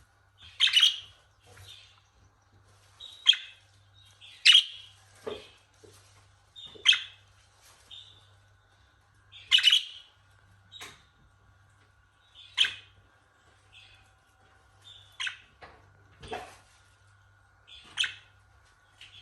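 Budgerigar chirping: short, sharp chirps every one to three seconds, over a faint steady hum.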